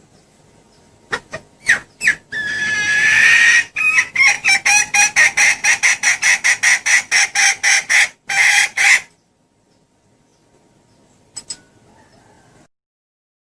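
Junglefowl hen calling: a few short clucks, a drawn-out call, then a rapid run of clucks at about four a second for some five seconds that stops abruptly. It is a hen's lure call, used to draw in wild junglefowl cocks.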